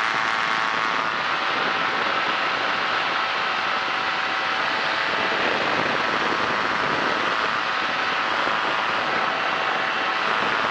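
Kolb Firefly ultralight's engine and propeller running steadily at cruise power in flight, a constant drone mixed with rushing air.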